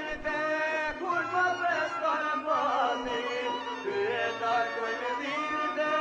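Albanian folk song: a voice singing long, ornamented lines over instrumental accompaniment.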